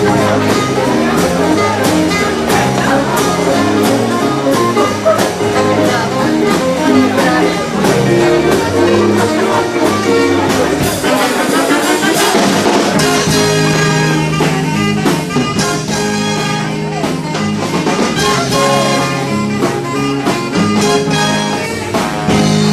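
Live dance band playing an instrumental passage with a steady drum beat; about two-thirds of the way in, long held notes come in over the rhythm.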